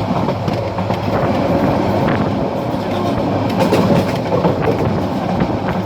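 Parabat Express passenger train running along the track: a steady rumble and rattle of the carriages on the rails, with some faint clicking.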